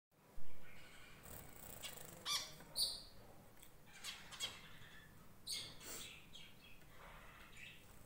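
Small pet birds chirping: short, high chirps scattered through, several a second at times, with a single loud knock right at the start.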